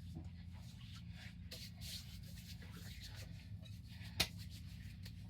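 Hands rubbing body cream into skin: soft, faint rubbing over a steady low hum, with one sharp click about four seconds in.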